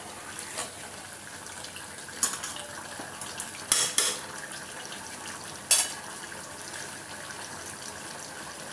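Chicken and masala sizzling in a pressure-cooker pot on high heat while being stir-fried down (kosha), with a metal spatula scraping and knocking against the pot about five times.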